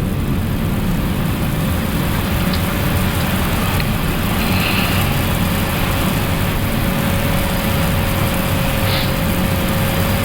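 Steady flight-deck noise of an Airbus A380 on final approach with gear down and flaps full: an even rush of airflow over a low engine hum, with a faint steady whine above it.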